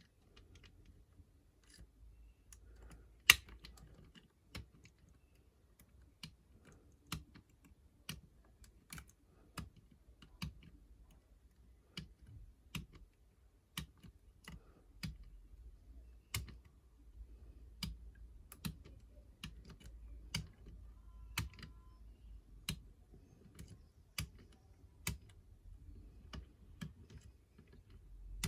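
Small sharp metal clicks of a 5-lever mortice lock being picked with a multi-pick, coming irregularly about once or twice a second as the levers are lifted, with one louder click about three seconds in.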